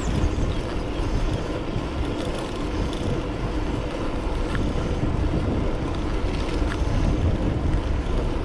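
Wind buffeting a GoPro's microphone and tyre noise from an electric bike riding along a road, a steady low rumble with a faint hum.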